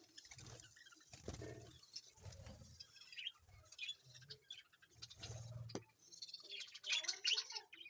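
Pet parrots in a breeding aviary chirping and chattering in many short, high calls, with low muffled bumps underneath.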